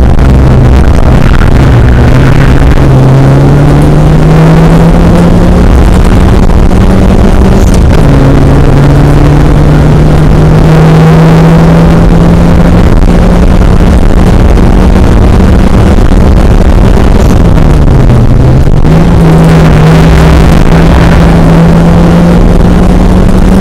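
Rallycross car's engine heard from inside the cabin under hard acceleration, very loud: the pitch climbs steadily and drops back at each gear change, a few times across the run, with one deeper dip and recovery near the end. Tyre and road noise run underneath.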